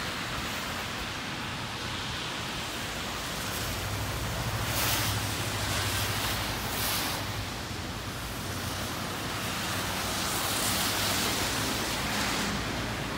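Heavy rain falling steadily on wet pavement, with cars swishing past on the wet road; the loudest passing, tyres hissing over a low engine hum, comes about five seconds in, and a softer one a few seconds before the end.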